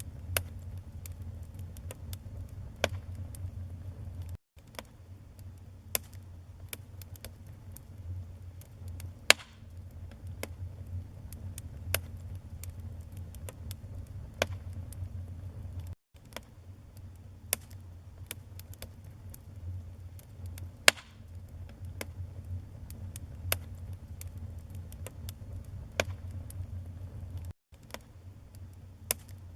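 Wood fire burning: a steady low rumble of flames with frequent sharp crackles and pops from the burning wood. The sound drops out to silence for an instant three times.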